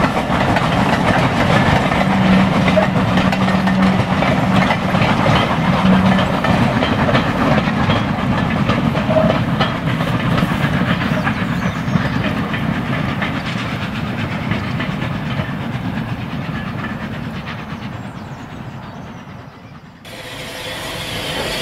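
Heritage railway train running past, its wheels clicking over the rail joints amid a hiss. A low steady tone sounds for a few seconds near the start. The train fades away over the last several seconds, then cuts abruptly to a different sound.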